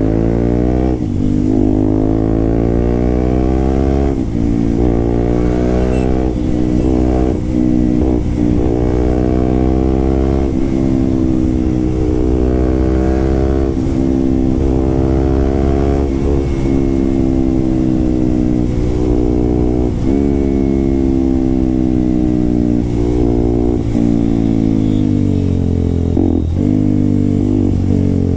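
Motorcycle fitted with an SC-Project aftermarket exhaust, being ridden. The engine note climbs and then drops sharply at several upshifts in the first eight seconds, then rises and falls more gently as the bike is throttled on and off.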